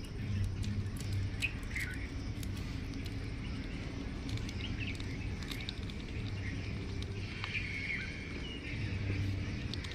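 Small birds chirping, short calls with quick downward slides, over light clicking and rustling and a steady low hum.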